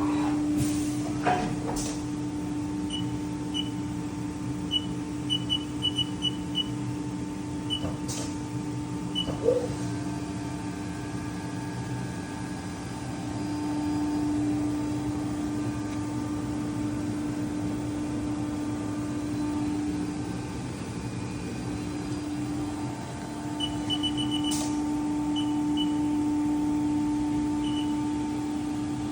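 2018 Haas VF-2 CNC vertical mill running with a steady hum. Short high beeps come in quick clusters twice, with a few sharp clicks.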